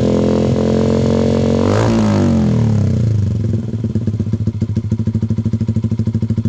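Yamaha MX King 150's single-cylinder four-stroke engine through a Proliner aftermarket exhaust, held at high revs, then dropping back to idle with a steady, even exhaust beat.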